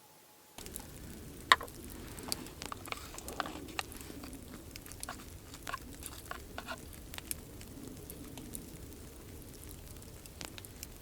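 Wood campfire crackling, with scattered sharp pops and snaps over a low steady rush of flame. It starts abruptly about half a second in, after near silence.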